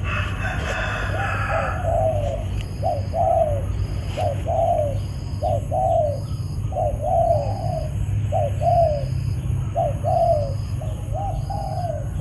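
Spotted dove cooing, a series of short low coos repeated roughly once a second. This is the wild-caught bird being trained as a trapping decoy. A faint high-pitched pulsing runs in the background.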